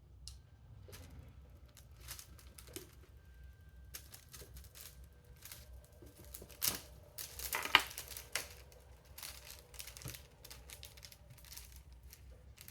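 Small wooden inserts being handled and pressed into a fretwork pattern: scattered light clicks and taps with some rustling, the sharpest pair about two-thirds of the way in.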